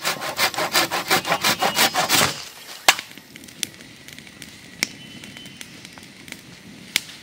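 Wood being cut with quick, rhythmic strokes, about five a second, for roughly two seconds, followed by a few single knocks.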